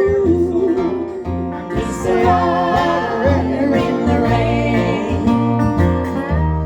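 Acoustic country band playing live: plucked guitars and banjo over upright double bass notes, with women's voices singing, one note held and wavering over the first second.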